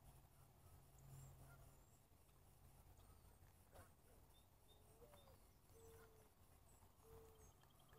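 Near silence: faint high bird chirps over a faint steady low hum, and from about halfway a run of four short, low, level bird notes, the first sliding up into its note.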